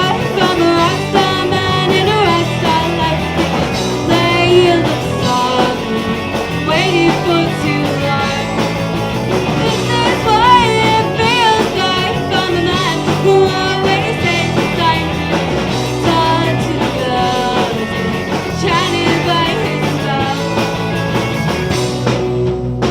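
A live rock band playing, with a female lead vocal singing over guitar, bass and drums.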